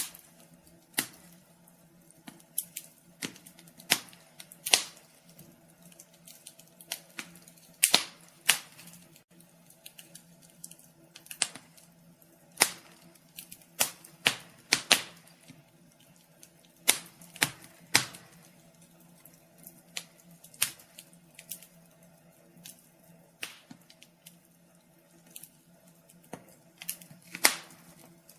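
Wood fire crackling in a fireplace: irregular sharp pops and snaps, a few every couple of seconds, over a faint steady low hum.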